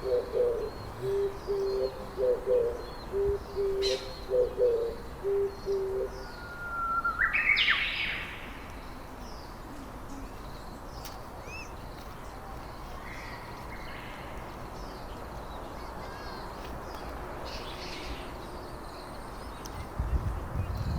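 A bird gives a run of short, low hooting notes, about two a second, for the first six seconds. A loud rising call follows about seven seconds in. After that comes a steady outdoor background with faint bird chirps, and a low thump at the very end.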